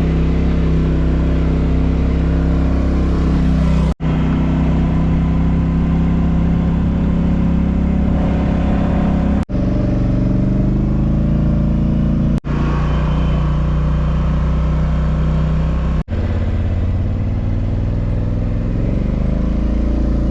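Four-wheeler (ATV) engine running loudly during a ride, its pitch shifting up and down with the throttle. It is broken by four sudden momentary dropouts.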